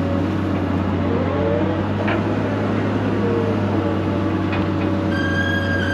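Heavy land-clearing machine's engine running steadily under work, with a few short knocks. Music comes in near the end.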